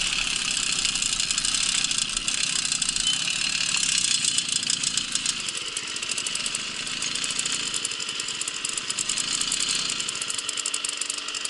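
Babetta moped's 50 cc two-stroke engine running while riding, with fast rattling clicks over it from about four seconds in.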